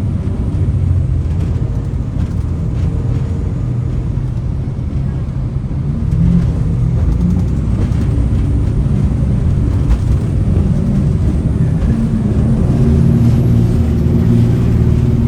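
Jet boat's turbo diesel engines running under way, a loud, steady drone that gets louder about six seconds in and again near the end.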